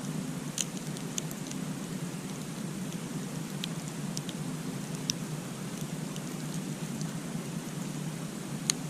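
Campfire burning with a steady low rush of flames and a few scattered sharp crackles and pops, the loudest near the end.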